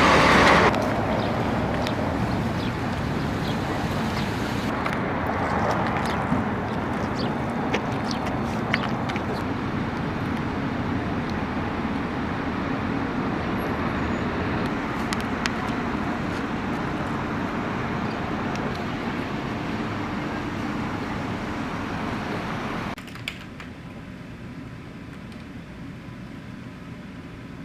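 Steady road noise from a moving car, with a few light clicks. About 23 seconds in it cuts off suddenly to a much quieter steady background hum.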